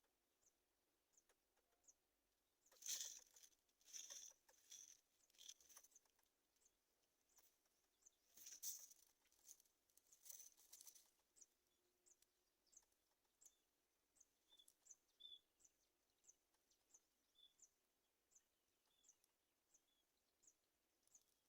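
Faint high-pitched chirps repeating about twice a second, with two spells of louder rustling: one from about three to six seconds in, the other from about eight to eleven seconds in.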